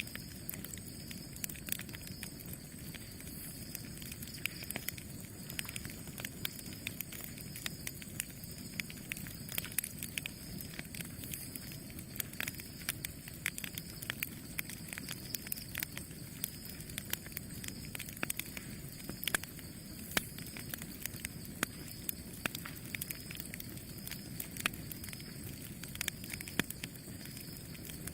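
Campfire burning: a steady low rush of flames with frequent sharp crackles and pops from the burning wood, scattered irregularly throughout.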